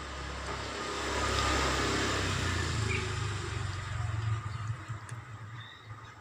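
A motor vehicle passing by, its engine and tyre noise growing louder over the first second or so, then slowly fading.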